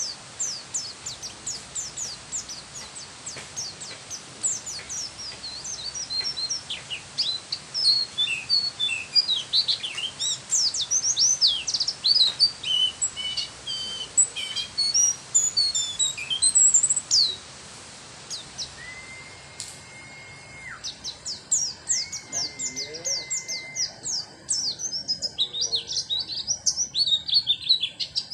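White-eye (pleci) singing a fast, dense song of high chirps, sweeps and trills. About two-thirds of the way in come two held, steady whistles at a lower pitch, then more rapid chirping. It is the full, varied song with learned fill phrases (isian) that keepers prize.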